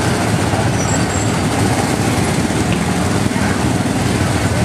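Steady, loud rumble of a small amusement-park ride car in motion.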